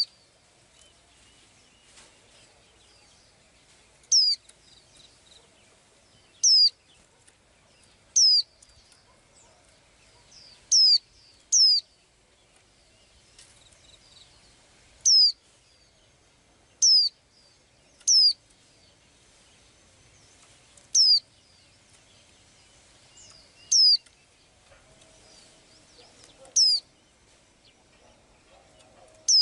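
A small bird repeating a single short, high call note about a dozen times, every one to four seconds; each note slides quickly down in pitch with a hooked tail.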